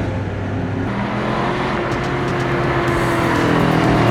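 Straight-piped V8 exhaust of a Cadillac DTS running under light throttle. The engine note steps up about a second in and grows slowly louder toward the end.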